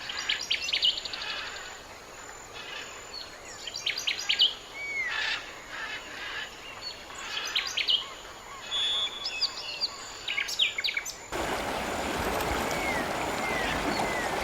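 Small birds chirping in short clusters of quick, high notes and trills every couple of seconds, over a steady background hiss that grows suddenly louder about eleven seconds in.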